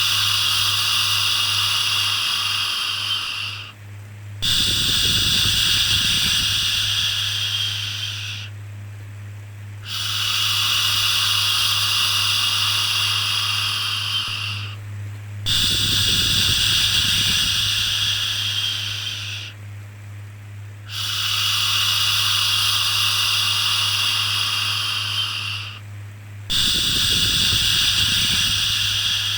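Repeated long 'shhh' shushing sounds for calming a baby, each lasting about four to five seconds with a short break between, over a steady low hum.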